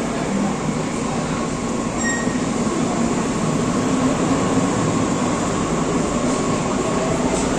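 Red S-Bahn electric multiple unit pulling out of an underground station platform, its wheel and motor noise steady and growing slightly louder as it gathers speed. A short high beep sounds about two seconds in.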